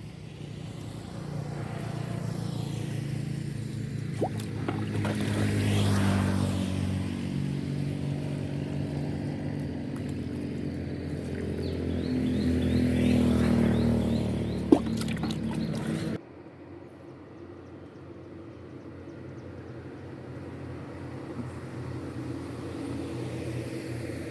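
A motor engine running, its pitch and loudness rising and falling, that cuts off abruptly about sixteen seconds in, leaving a quieter steady hum.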